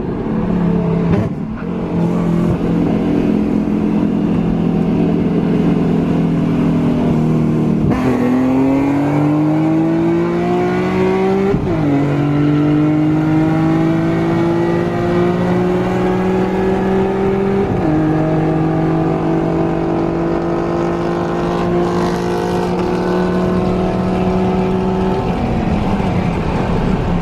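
Car engine pulling hard under acceleration, its pitch climbing and dropping sharply at two gear changes, then holding before falling away near the end as the throttle is eased off.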